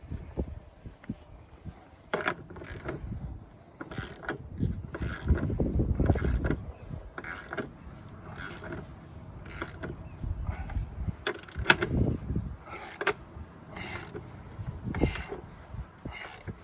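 Manual tire bead breaker being worked against a tractor tire: a run of metallic clicks and creaks, roughly one stroke a second, as its plunger is forced down on the bead.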